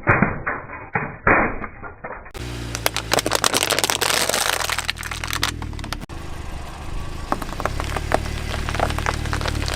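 Objects cracking and crunching under a car's tyres, in a rapid run of sharp snaps, over the car's steady engine hum. The first couple of seconds sound muffled, with a few louder cracks, before a cut to clearer, denser crackling.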